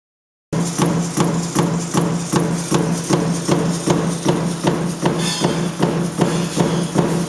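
Power stamping press running a die continuously, striking about two and a half times a second over a steady motor hum.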